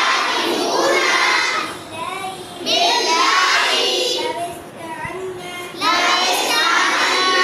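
A group of children's voices singing together in unison, in three loud phrases with quieter voices in between.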